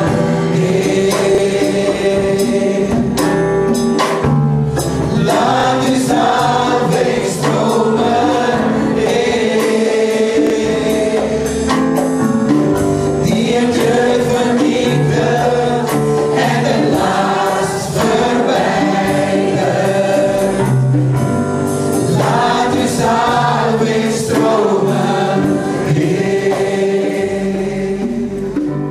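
Church praise team singing a gospel worship song in Dutch with band accompaniment.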